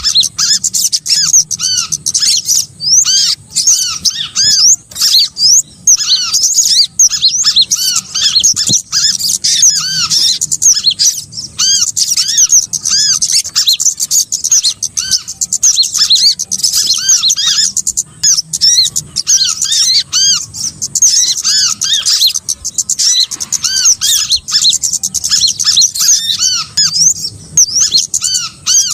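Bird-lure recording of small birds: a dense chorus of high, overlapping, arch-shaped chirps and squeaky calls repeating rapidly without pause. It is the kind of track played to draw small birds in for catching.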